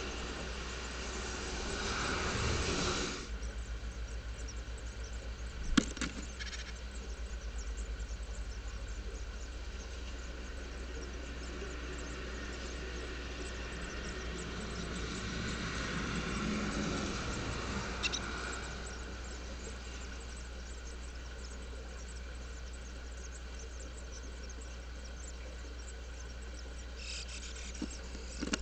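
Inside a Japanese tit nest box: a steady low electrical hum under an even hiss that fits rain. A sharp knock comes about six seconds in and a smaller one near eighteen seconds, and the noise swells twice, at the start and around sixteen seconds.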